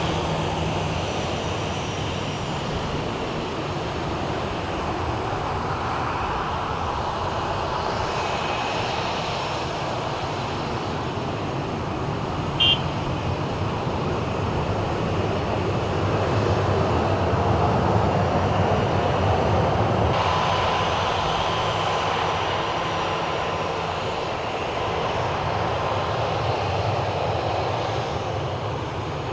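A steady engine drone with some faint shifting tones, and one short high beep about halfway through.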